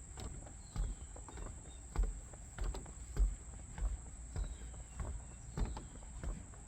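Footsteps of someone walking at a steady pace, about one and a half steps a second, over a steady high-pitched insect chorus.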